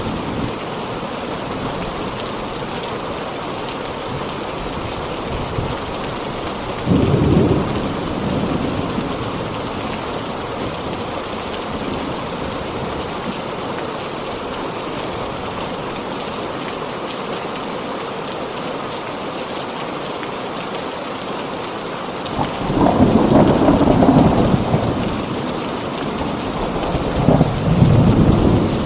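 Heavy rain falling in a steady hiss, with rolls of thunder rumbling low: once about seven seconds in, and twice near the end, the longer roll lasting a few seconds.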